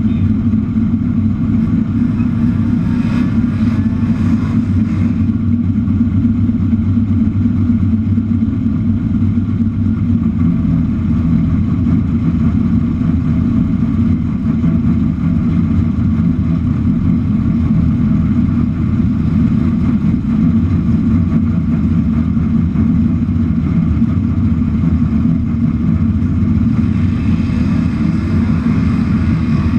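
The 1967 Camaro drag car's newly built engine idling loud and steady close to the microphone as the car rolls slowly forward. Its low note shifts slightly about a third of the way in, with no hard revving.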